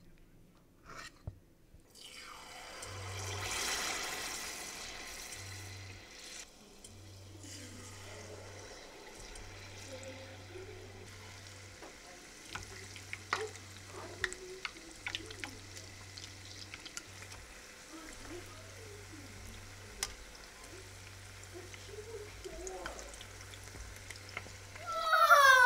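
Battered chicken croquettes deep-frying in a small saucepan of hot oil: a steady sizzle with scattered crackles and pops, loudest a few seconds in as spoonfuls of batter go into the oil. Near the end a loud sweep falling in pitch cuts across it.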